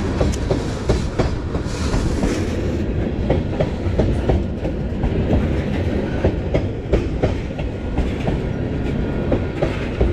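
Train cars rolling past close by: a steady rumble with wheels clacking over the rail joints.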